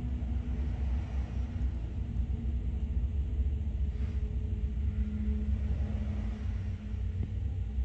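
Freight train passing: BNSF diesel locomotives rumbling by with a steady low engine hum, followed by double-stack container cars, heard through a window.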